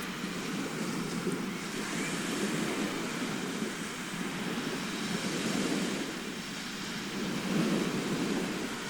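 Sea waves washing on a shore: a steady rushing that swells and eases every few seconds.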